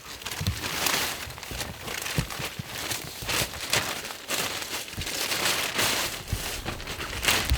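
Crinkling and rustling of thin nylon fabric, with irregular sharp crackles: an inflatable sleeping pad and its pump bag being handled and filled.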